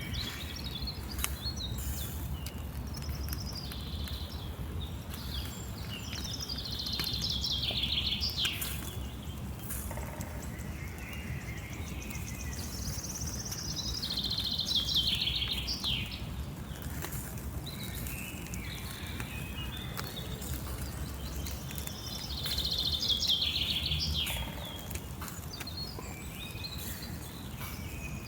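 A songbird singing short phrases of quick notes ending in a trill, repeated about every seven or eight seconds, over a steady low outdoor rumble.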